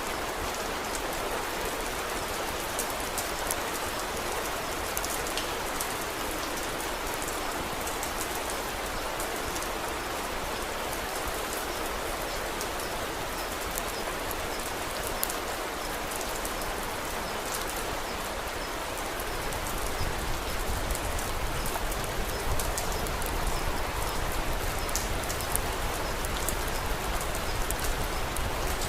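Steady rain falling, with many faint sharp ticks scattered through it. About two-thirds of the way in, a low rumble fills in under the rain and the whole sound gets slightly louder.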